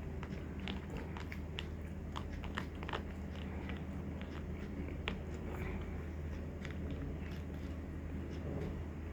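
A person chewing food close to the microphone: wet mouth clicks and crunches, densest in the first few seconds, over a steady low hum.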